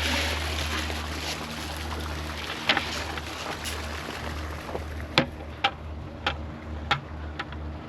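A steady low rumble, then a string of about six sharp knocks spaced roughly half a second to a second apart in the second half.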